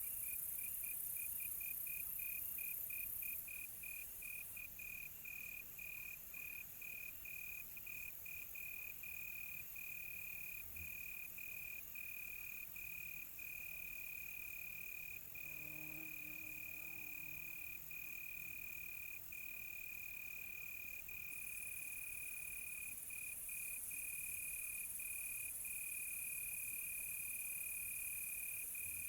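Crickets chirping at one steady high pitch, in quick even pulses at first and then in an almost unbroken trill with short gaps, over a steady high hiss.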